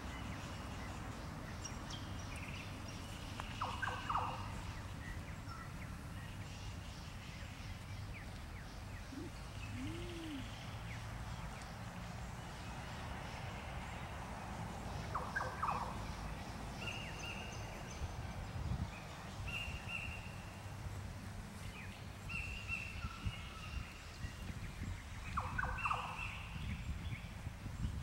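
Short bird calls, three times about ten seconds apart, with thin high chirps from other birds in between, over a steady low background rumble.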